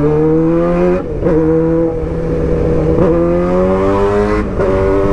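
2008 Suzuki GSX-R600 inline-four sportbike accelerating hard, its engine note climbing in pitch and dropping at three upshifts, about one, three and four and a half seconds in, with wind noise underneath.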